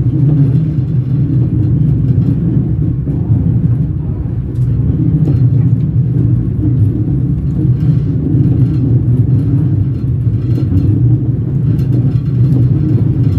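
Train wheels rolling on the rails: a steady, loud low rumble with faint clicks scattered through it.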